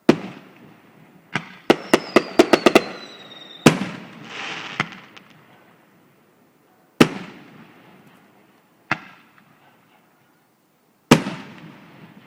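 Fireworks exploding in loud separate bangs, each with a trailing echo. About two seconds in comes a quick string of a dozen bangs with a falling whistle over them, followed by a brief crackling hiss. Single bangs follow a few seconds apart.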